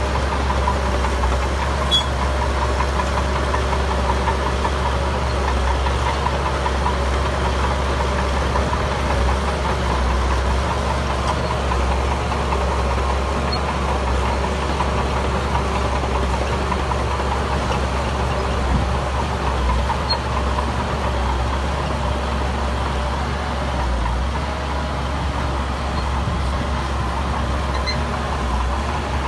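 Heavy earthmoving machine's diesel engine running steadily, a deep rumble with a steady higher tone above it.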